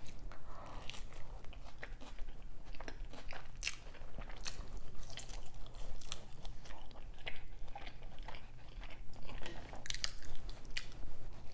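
Close-up eating sounds of a person biting and chewing a McDonald's Quarter Pounder with cheese: an irregular run of small wet clicks and soft crunches.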